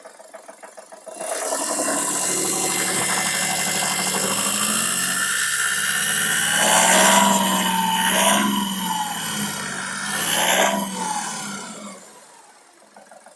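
VW Polo 1.2 TDI three-cylinder diesel engine idling, then revved up twice, with a rise and fall in pitch about 7 and 10 seconds in. It runs without injector knock, its Delphi injectors freshly coded.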